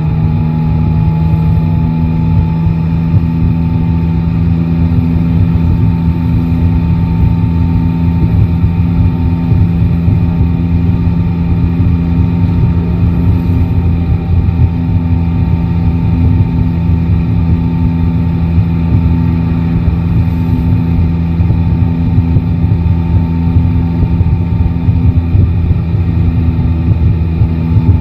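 Yamaha Tracer 9 GT's three-cylinder engine running at a steady, nearly unchanging speed while the bike cruises, with rough wind rumble on the microphone underneath.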